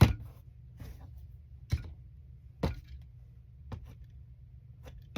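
A handful of short, sharp taps and clicks, spaced about a second apart, the first the loudest, from quilting tools handled on the work surface while trimming a pieced block, over a faint steady low hum.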